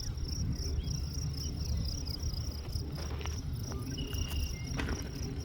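Insects trilling in a steady, high, fast-pulsing chorus, with a low rumble underneath.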